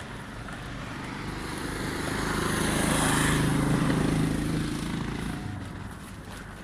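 A motor vehicle passing by: its engine hum and road noise grow louder to a peak about three seconds in, then fade away by about six seconds.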